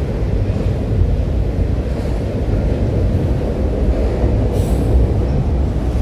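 Train rolling past with a steady low rumble of railcars on the track, and a brief high-pitched wheel screech about four and a half seconds in.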